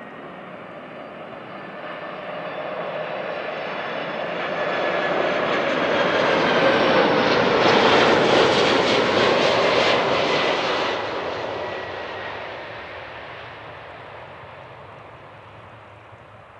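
Boeing 747 freighter on landing approach passing overhead: the rumble and whine of its four turbofan engines build to a peak about halfway through, then fade away. The high whining tones slide down in pitch as it goes by.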